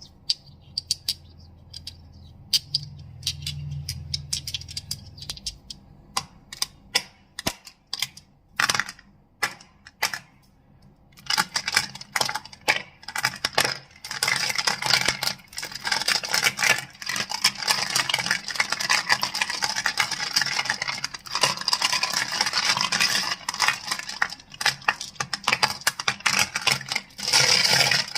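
Crystals clicking and clacking close to the microphone. It starts as faint scratching, then comes a handful of separate sharp clicks from about six seconds in. From about eleven seconds it turns to a dense, continuous clatter of rapid clicks.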